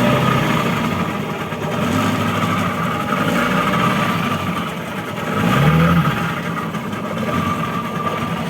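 A motor running steadily with a constant hum, briefly swelling louder about five and a half seconds in.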